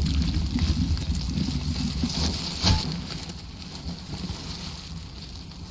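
Low rumbling ambience that slowly fades, with a single sharp crack about two and a half seconds in.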